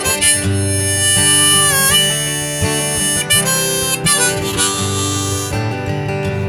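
Instrumental break in a live Americana song: a harmonica plays held notes, one bent down about two seconds in, over strummed acoustic guitar.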